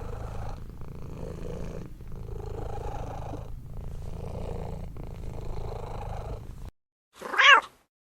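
Domestic cat purring in long swells, one per breath, about four of them. After a sudden cut to silence, a single short meow near the end is the loudest sound.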